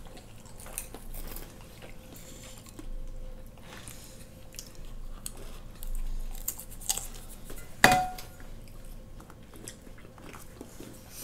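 Chewing and crunching of fried food, with samosa being bitten, and small clicks of cutlery and dishes. About eight seconds in there is one loud, sharp clink of a dish that rings briefly.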